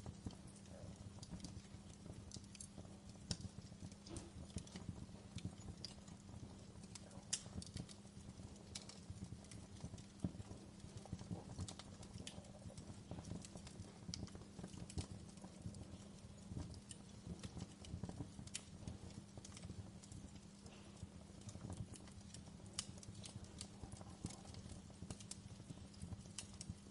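Wood fire crackling in a fireplace: frequent irregular pops and snaps over a low, steady rumble of the flames.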